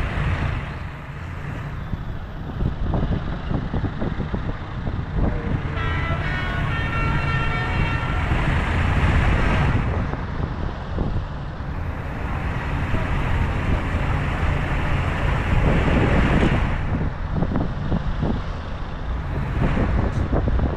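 Tractor engines running as a line of tractors passes by, the engine noise swelling and fading as each goes past. A horn sounds for about two seconds roughly six seconds in.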